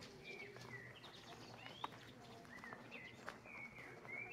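Faint outdoor ambience with small birds chirping: short whistled notes and a few quick upward-sliding calls, over a low background hum, with a couple of sharp clicks.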